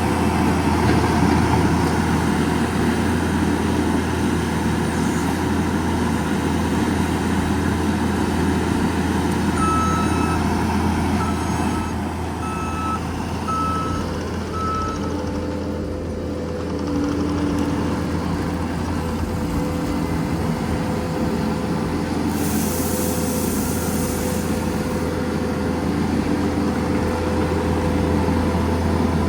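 Heavy truck engine running steadily. A reversing alarm beeps about five times, roughly once a second, partway through, and a short burst of hissing air comes near the end.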